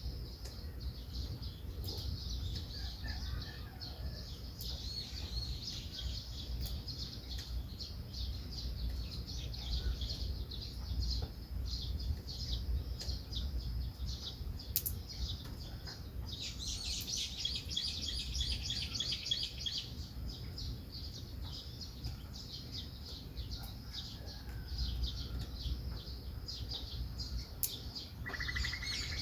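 Small songbirds chirping and twittering continuously in quick, high notes, with a busier, higher burst of song a little past halfway, over a steady low rumble.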